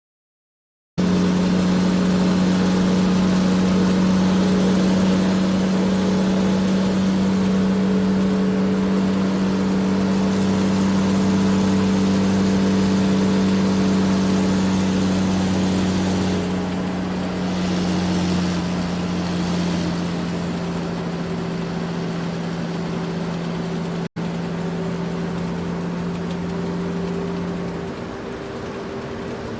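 Small electric motor of a toy construction vehicle running with a steady hum. Its pitch drops slightly about sixteen seconds in and again near the end, and it cuts out for an instant about two-thirds of the way through.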